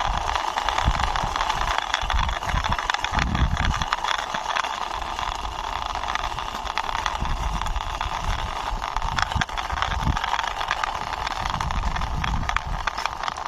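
Plastic toy military tanker truck pushed along by hand, its wheels and body rolling and rattling over the surface, with a steady hiss and irregular low bumps and rumbles from handling.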